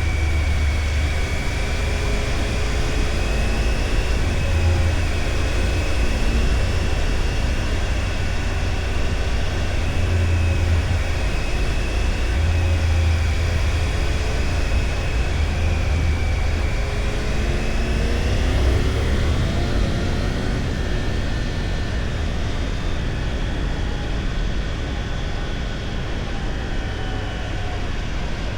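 Motorcycle engine running under way, with a steady low rumble; its pitch shifts with the throttle and rises clearly about two-thirds of the way through as the bike accelerates.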